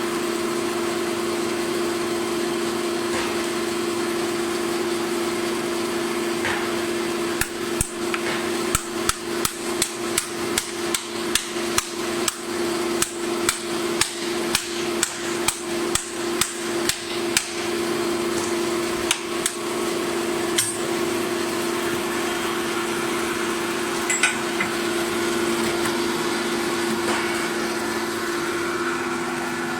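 Steady hum of running machinery, with a run of quick, sharp hammer-like knocks at about two a second that starts about a quarter of the way in and lasts about ten seconds, followed by a few single knocks.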